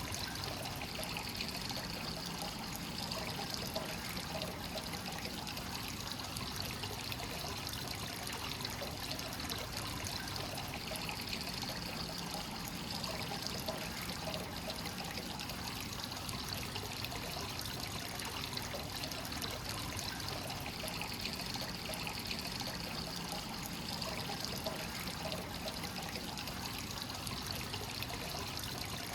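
Hot spring source water pouring steadily into a bath, a continuous trickling splash with no pauses.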